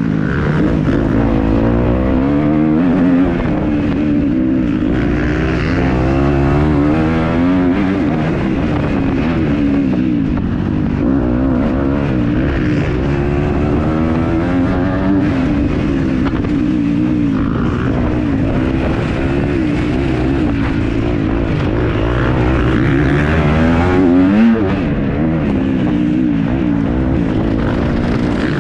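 Kawasaki KX250F four-stroke single-cylinder motocross engine under hard riding, the revs climbing and dropping over and over as the throttle is worked, with a sharp high rev about three quarters of the way through.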